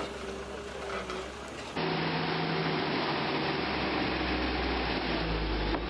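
An engine running steadily, cutting abruptly about two seconds in to a louder engine running with a deep hum.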